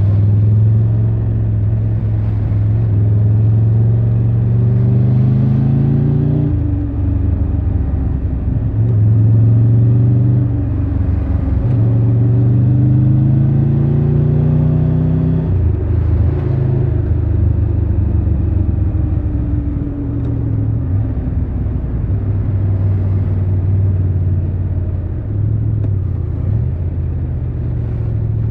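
Triumph Tiger 1200 Rally Pro's three-cylinder engine accelerating under way, its pitch climbing in three runs that each end in a sudden drop as it shifts up, then easing down as the bike slows.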